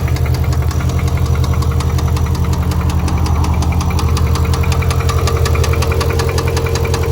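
C6 Corvette V8 idling with a steady, evenly spaced knock, about five or six knocks a second, which the owner takes for rod knock.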